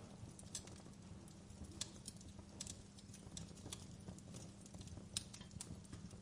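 Wood fire crackling in a fireplace: irregular sharp pops and snaps over a low steady rumble, a sharper pop about five seconds in.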